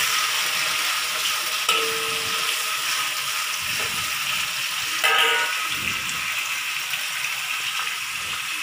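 Sliced shallots sizzling steadily in hot oil in a wok as they are stirred with a spatula. The spatula knocks against the wok twice, about two seconds and five seconds in.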